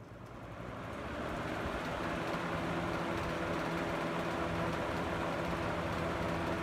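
Vintage Lakewood three-speed box fan switched to high, spinning up over the first couple of seconds and then running steadily: a rush of air with a steady motor hum underneath.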